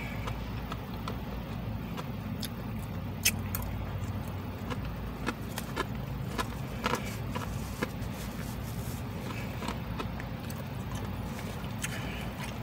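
Mouth sounds of chewing crispy fried chicken strips, with scattered short clicks and crackles from the food and its paper wrapper, over a steady low hum inside a car cabin. The sharpest click comes about three seconds in.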